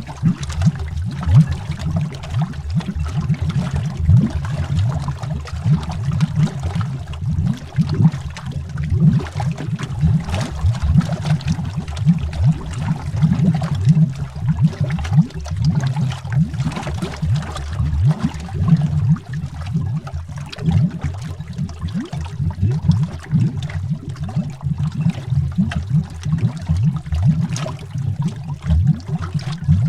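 Water bubbles heard underwater: a continuous, dense, irregular bubbling, deep and low-pitched.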